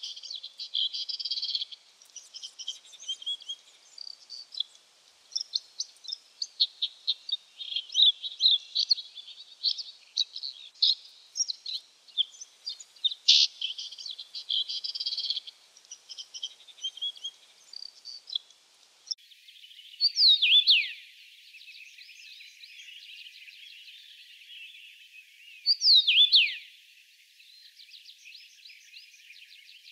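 Red-backed shrike singing a fast, varied run of short notes. About two-thirds of the way in it gives way to a common rosefinch singing a short whistled phrase twice, about five seconds apart, with fainter twittering between.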